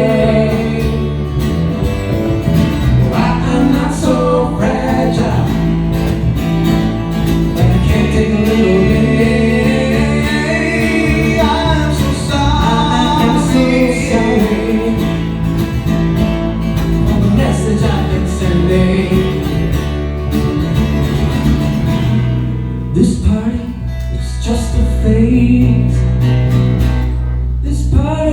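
Band music: a guitar-backed song with a singing voice carrying the melody over a steady bass.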